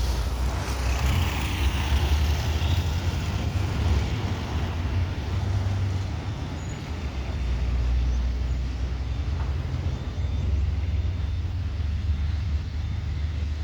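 Airbus A321 airliner on approach, heard as a steady low jet rumble with a rushing hiss, mixed with wind on the microphone.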